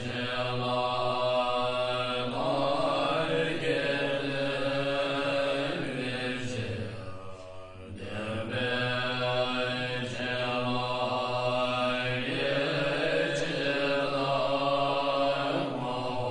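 Buddhist mantra chanting: a low chanted melody held in long phrases, with a brief break about halfway through.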